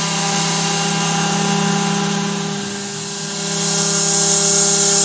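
Carvera Air desktop CNC mill's spindle running steadily with a pitched whine while the cutter takes a shallow milling pass, with the hiss of the air assist blowing on the cut. The sound dips briefly near the middle, and the hiss grows louder after about three and a half seconds.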